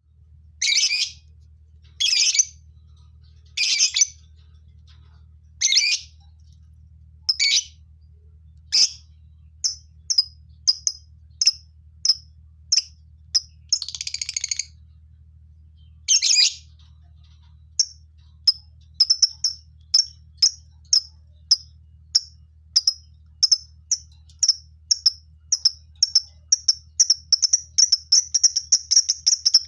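Lovebirds calling: loud, shrill screeches about every one and a half to two seconds, then short high chirps that come faster and faster until they run together into continuous chatter near the end. A faint low hum runs underneath.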